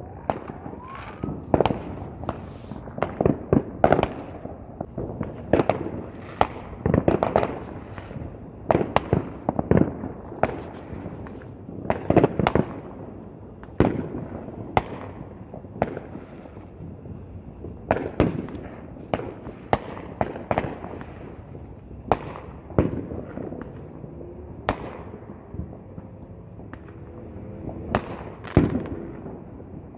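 Fireworks going off: a dense, irregular run of sharp bangs, several close together at times, thinning out to a few scattered bangs after about twenty seconds.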